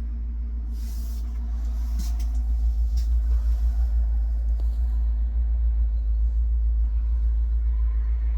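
A steady low rumble, louder from about three seconds in, with a few faint clicks.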